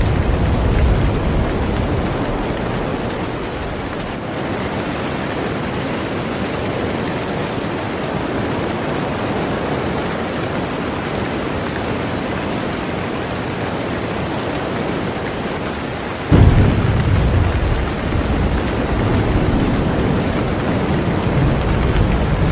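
Heavy rain falling steadily on a boat, with thunder: a low rumble fading away in the first couple of seconds, then a sudden thunderclap about sixteen seconds in that keeps rumbling afterwards.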